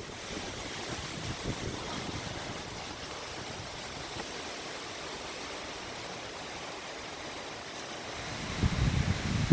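Steady wind hiss outdoors ahead of a thunderstorm, with gusts buffeting the microphone into a jagged low rumble near the end.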